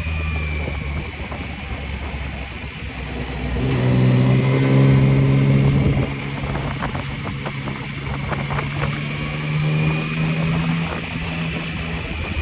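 Yamaha MT-09's three-cylinder engine running under way. About four seconds in it opens up and grows louder for about two seconds, then holds a steady note, with wind noise underneath.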